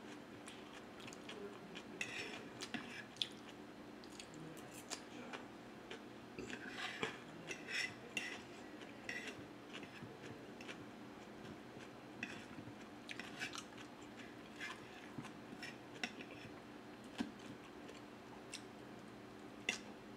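Close-miked eating sounds: chewing and soft wet mouth clicks while eating macaroni salad and chicken adobo, mixed with a metal fork scraping and tapping on a wooden plate. Short scattered clicks and scrapes come every second or so over a faint steady hum.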